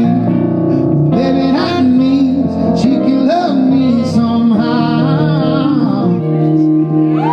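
Live pop-soul song performance: a wordless lead melody line bending in pitch over steady backing music.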